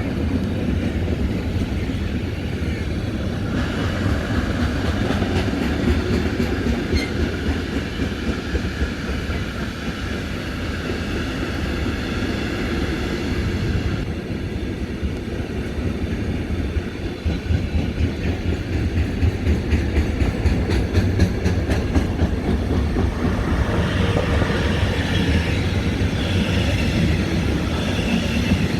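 A train running past on the rails: a steady heavy rumble with wheels clattering over rail joints, the clatter coming quicker and denser about twenty seconds in.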